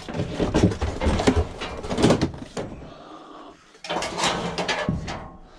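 A metal barbecue being shoved into a vehicle, clattering and scraping in two spells of knocks with a short lull between them.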